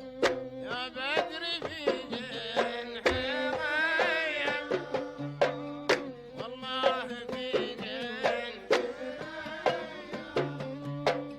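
Instrumental passage of a Gulf sawt song: an ensemble plays a wavering, ornamented melody over hand-drum strokes.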